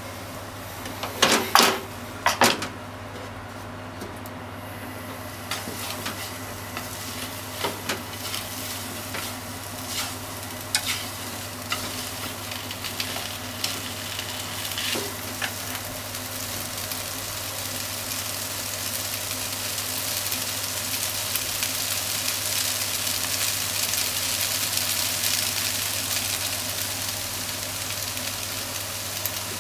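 Soba noodles, pork and onion frying in a pan while being tossed and stirred with chopsticks: a few loud clatters about a second or two in, scattered clicks of chopsticks on the pan, and a sizzle that grows louder in the second half.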